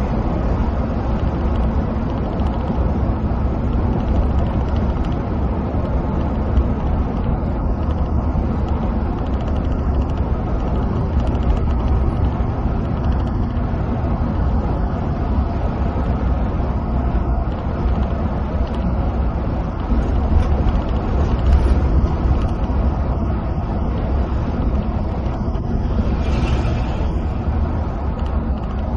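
Coach cabin sound while cruising on a highway: a steady low engine drone mixed with tyre and road rumble, with a brief hiss about 26 seconds in.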